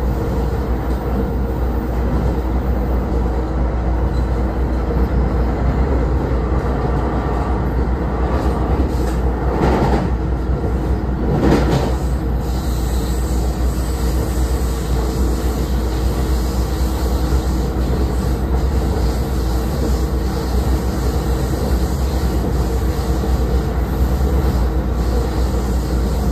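NJ Transit passenger train under way, heard from inside the coach: a steady, even rumble of wheels and running gear. There are two brief swells of louder noise about ten and eleven and a half seconds in.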